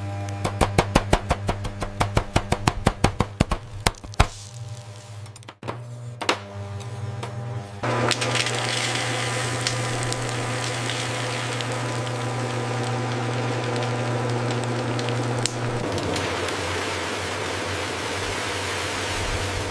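Food-processing machinery: a fast run of sharp cracking clicks, about six a second, for the first four seconds, then after a short lull a steady machine hum with a low drone that shifts near the end.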